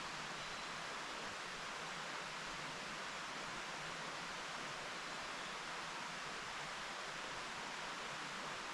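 Mountain stream running steadily: an even, unbroken rush of water with no separate splashes or other events.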